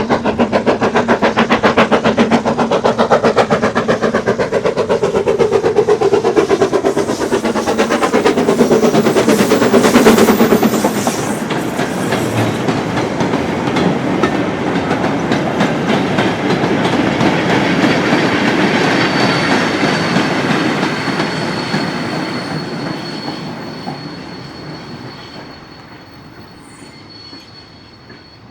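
BR Standard 9F steam locomotive working hard past with a goods train, its rapid exhaust beats loudest about ten seconds in. The wagons then clatter by, wheels clicking over the rail joints, and the train fades away into the distance.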